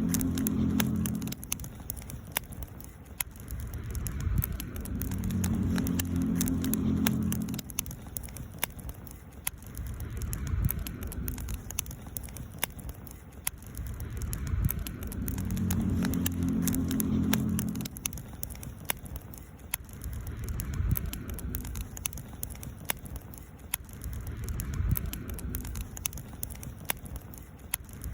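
Wood campfire crackling, with frequent sharp pops and snaps. Under it a low rumble swells and fades every few seconds.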